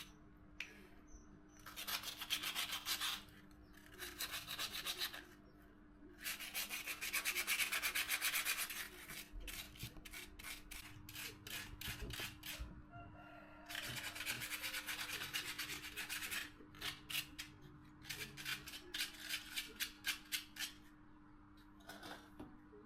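Rapid rasping strokes of a hand tool rubbing on a workpiece during a repair, in runs of about one to three seconds with short pauses between.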